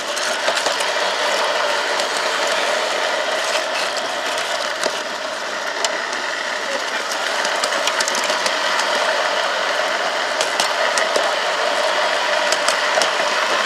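Garden-railway model locomotive running along its track, heard close up from on board: a steady whirring of its drive and gearing, with irregular sharp clicks from the wheels on the rails. The sound starts suddenly as the loco sets off.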